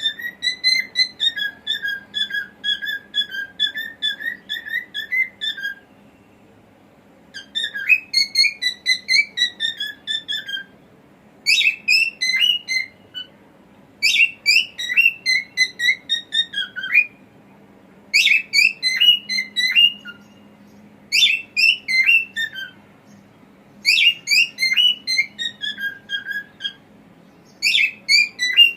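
Cockatiel singing: about eight whistled phrases, each a quick run of chirpy notes that bend up and down, with short pauses between them.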